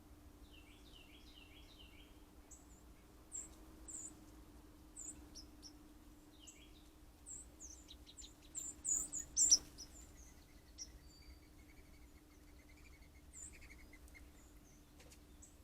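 Small songbirds calling: many short high chirps, a quick run of falling notes near the start, the loudest cluster of chirps about nine seconds in, and a fast trill later on. A faint steady low hum runs underneath.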